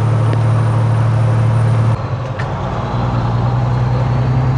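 Semi-truck diesel engine droning steadily, heard inside the cab while driving. About two seconds in the drone drops off briefly, then picks back up about a second later at a slightly higher pitch.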